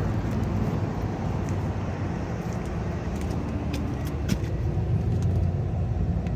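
Lennox rooftop unit running steadily with only its fan on, no call for cooling. A few light clicks sound over the running.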